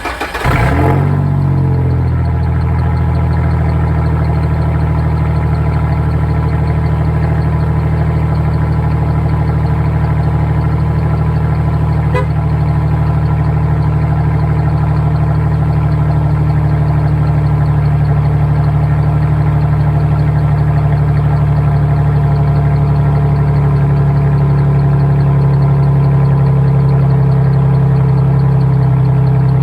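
2001 Ford F-150's 4.2-litre V6, straight-piped with the muffler cut off, catching as it starts, flaring briefly and settling within about two seconds into a loud, steady idle.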